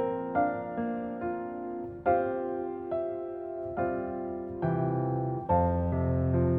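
Background music: gentle piano playing slow notes and chords.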